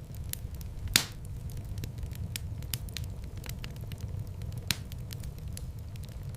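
Wood fire burning in a fireplace: a steady low rumble of flames with scattered small crackles and two sharper pops, about a second in and near the end.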